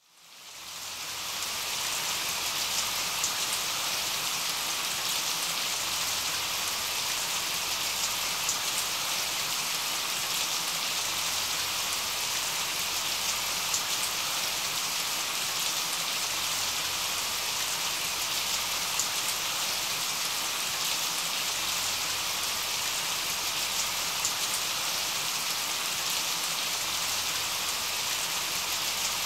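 Steady rain falling: an even hiss with scattered faint drop ticks, fading in over the first two seconds and then holding constant.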